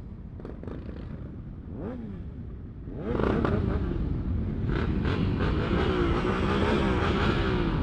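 Motorcycles pulling away in a group, their engines revving: a short rev about two seconds in, then louder engine noise from about three seconds in.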